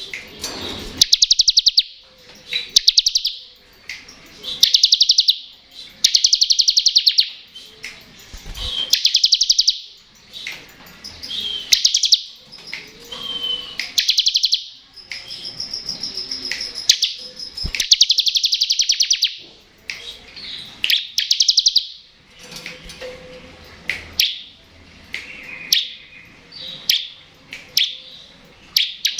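Bar-winged prinia (ciblek) singing its 'ngebren' song: high, rapid buzzy trills about a second long, repeated roughly every two seconds, with shorter chips between and a held high note about halfway through.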